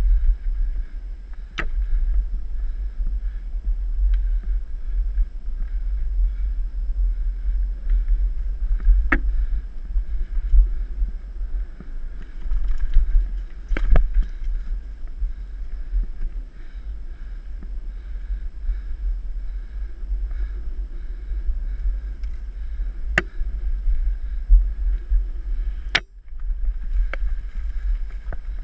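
Mountain bike rolling over a dirt trail: a steady low rumble of wind buffeting the microphone, with a handful of sharp clicks and knocks from the bike rattling over bumps.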